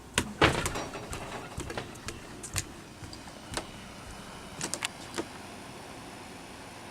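Room air conditioner running with a steady whirring noise. Sharp clicks and knocks come over it, loudest about half a second in, with a few more up to about five seconds in.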